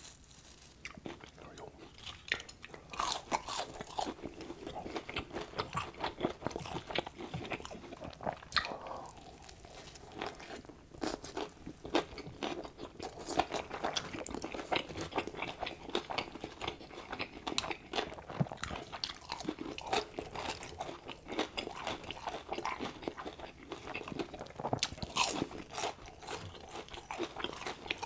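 Close-miked chewing and crunching of fried fast food, Burger King chicken fries and a bite of a double cheeseburger: a dense run of irregular crisp crunches with wet mouth sounds. It starts softer for about the first two seconds.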